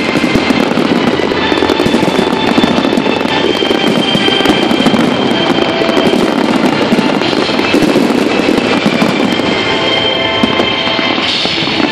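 Fireworks display: a dense, continuous barrage of crackling and popping shell bursts, loud throughout with no pause.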